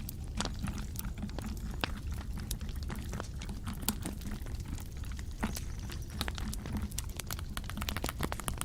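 Close-miked ASMR trigger sounds: a dense, irregular run of small sharp clicks and crackles over a steady low hum.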